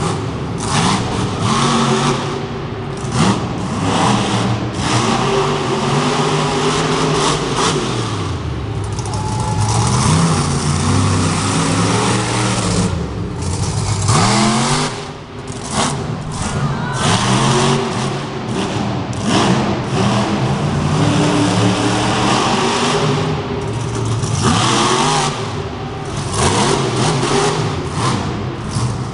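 Bounty Hunter monster truck's engine revving hard during a freestyle run, its pitch climbing and falling again and again every few seconds, with short drops between runs of throttle.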